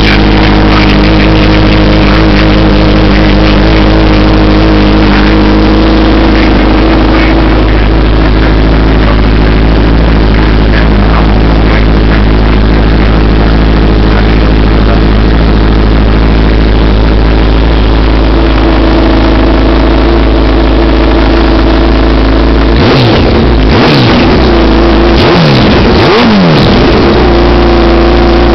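Kawasaki Ninja ZX-14's inline-four engine running through a Brock's Alien Head aftermarket exhaust, idling steadily and loud, then revved in a few quick throttle blips that rise and fall near the end.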